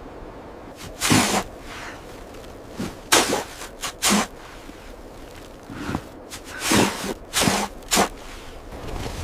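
A series of about seven short swishing noises at uneven intervals, each under half a second, over a faint steady background.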